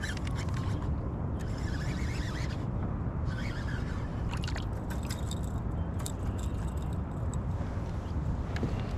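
Steady low wind rumble on the microphone, with scattered bursts of clicking and scraping from fishing gear being handled on a kayak.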